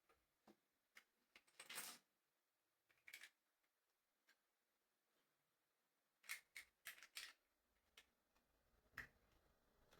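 Faint, scattered clicks and short rattles of plastic LEGO pieces being handled and pressed together, with a quick run of clicks about six to seven seconds in.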